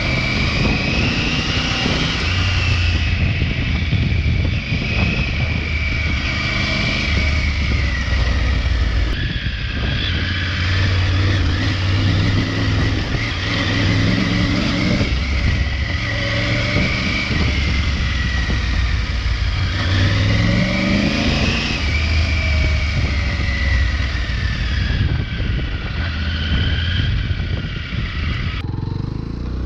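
Triumph Tiger 900 Rally Pro's inline three-cylinder engine through its stock exhaust, running on a dirt trail, its pitch rising and falling with the throttle.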